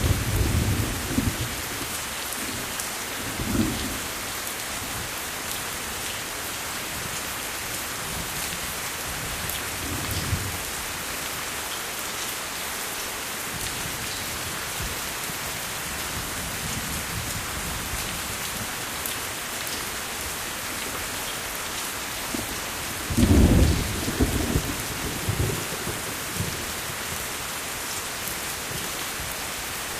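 Steady rain with low rumbles of thunder: a couple of rumbles in the first few seconds, one about ten seconds in, and the loudest, rolling one from about twenty-three to twenty-six seconds in.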